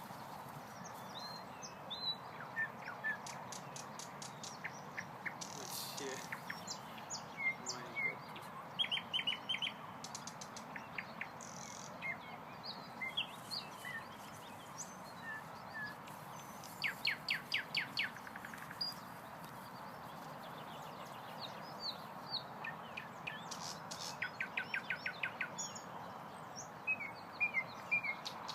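Nightingale singing: varied phrases of short whistles and chirps and fast rattling trills, each phrase followed by a short pause, over a steady background rush.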